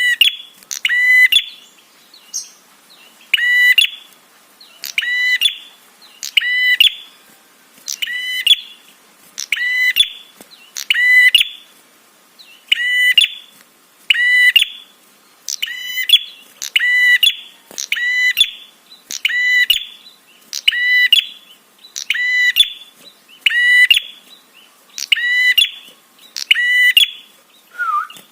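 Prenjak (prinia) calling: short, sharp notes repeated steadily about once every second and a bit, like a recorded lure call.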